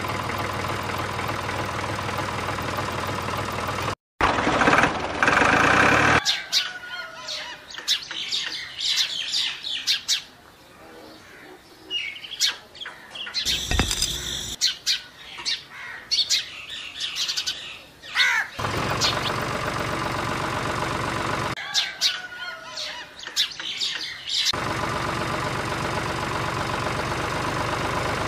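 Birds chirping, with light clicks and taps as the small parts of a toy tractor's trailer hitch are handled. A steadier, denser sound fills the first few seconds, a stretch after the middle and the last few seconds.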